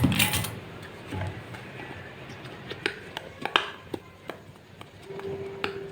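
Slime being worked by hand, giving scattered sharp sticky clicks and pops, about two or three a second, after a louder noisy squelch in the first half second.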